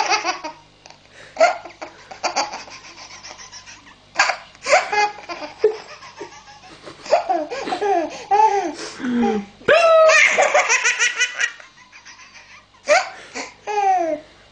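Baby laughing hard in repeated fits and belly laughs, with a long, loud stretch of laughter about ten seconds in.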